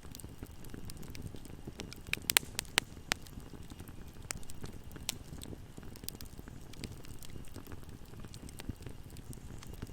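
Wood fire burning in a fireplace: a low steady rumble of flame with scattered sharp crackles and pops, a quick cluster of loud pops about two to three seconds in.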